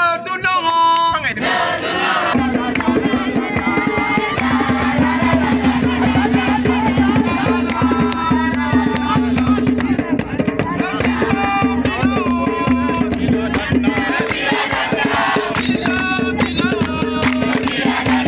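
A group of voices singing and shouting together over fast drumming, with a steady low tone joining about two seconds in.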